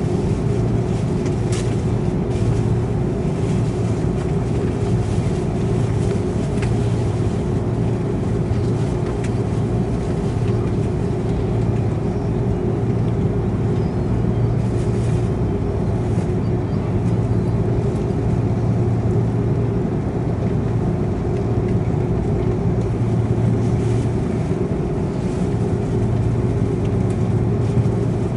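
Steady cabin noise inside an Airbus A330-300 on the ground before takeoff: a constant low drone with two steady hums from the engines at low power and the cabin air conditioning.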